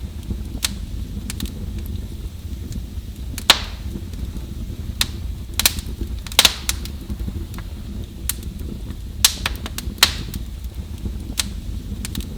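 Fire in a fireplace crackling: sharp, irregular pops and snaps over a steady low rumble. The loudest pops come about three and a half seconds in, again around six and a half seconds, and near ten seconds.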